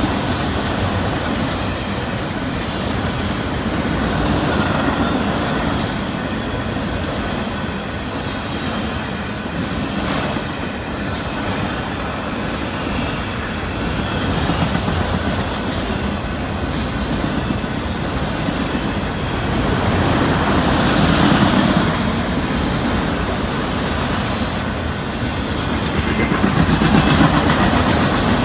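Freight train cars rolling past, with steel wheels clacking over the rail joints and a continuous rumble that swells a little twice.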